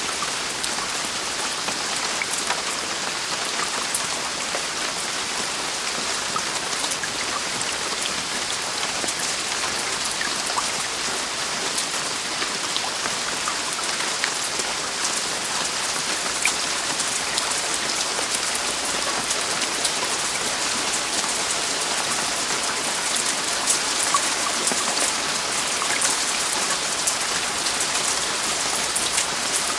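Heavy rain falling steadily on a roof, an even hiss dotted with many small drop impacts.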